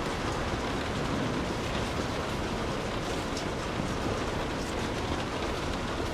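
Steady rainfall: a dense, even hiss of rain with sharp individual drop ticks and a low rumble underneath.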